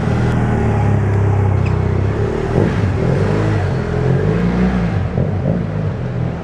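Motorcycle engine running, held steady for about two seconds and then revved, its pitch rising and falling.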